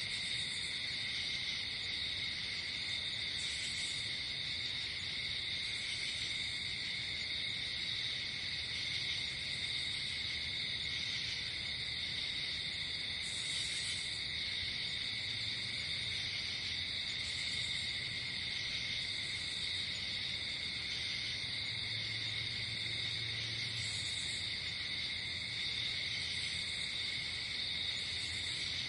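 Night woodland ambience: a steady, unbroken chorus of crickets and other insects chirring, with short, higher-pitched insect trills recurring every few seconds over it.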